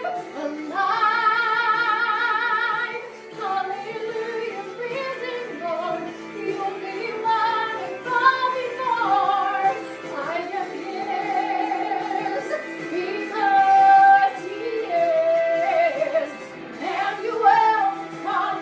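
A woman singing a musical-theatre song over instrumental accompaniment, with wide vibrato on the long held notes.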